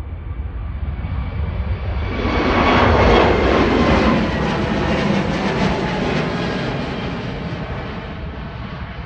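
Wizz Air Airbus twin-engine jet airliner taking off and passing by: engine noise builds, peaks about three seconds in with a falling pitch as it goes past, then slowly fades.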